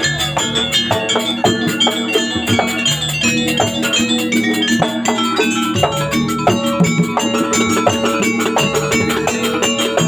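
Live jaranan ensemble music: struck metal gamelan-style pitched percussion playing busy, repeated notes over drums, with a fast, even high ticking of about five strokes a second.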